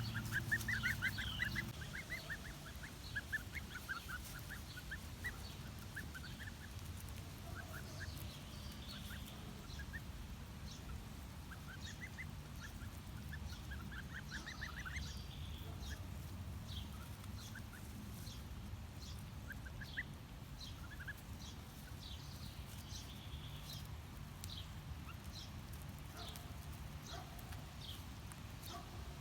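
A flock of two-week-old goslings peeping in short, quick runs of calls, with fainter high chirps later on, over a low steady rumble.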